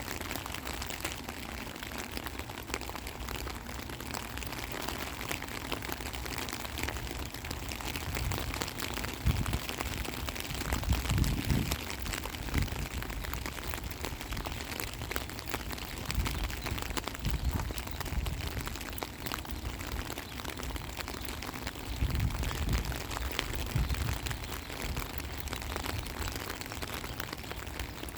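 Steady rain with the dense patter of individual drops striking a surface. A few irregular low rumbles swell up around the middle and again later.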